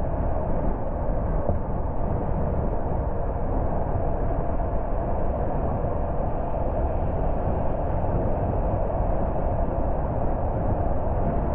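Steady road noise of a moving car: tyres and engine running evenly, with no sudden changes.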